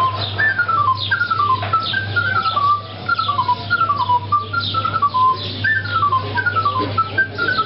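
A flute playing a folk melody in repeated phrases, each a quick run of notes stepping downward, over a steady low hum.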